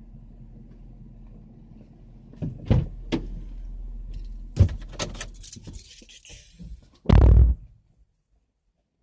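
Low hum of a vehicle running, then a few clicks and knocks, ending with a loud thud of a car door being shut.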